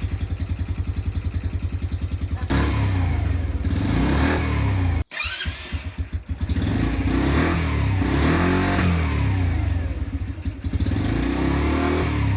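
Motorcycle engine running, ticking over evenly for a couple of seconds and then being revved up and down repeatedly. The sound breaks off suddenly about five seconds in and the revving carries on.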